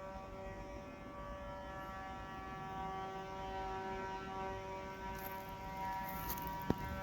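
A steady, droning machine hum with a fixed pitch and many overtones, from construction machinery working nearby. A single sharp click comes near the end.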